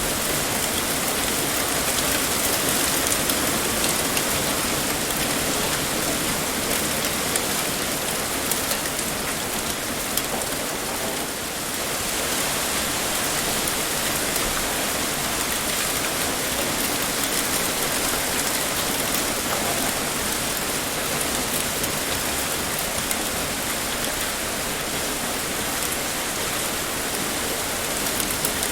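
Heavy, steady rain pouring and pattering on a surface, with a brief slight lull about eleven seconds in.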